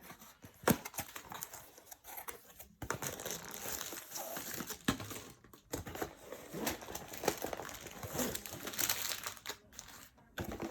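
Plastic packaging from a diamond painting kit being handled and unwrapped, crinkling irregularly with small clicks and rustles.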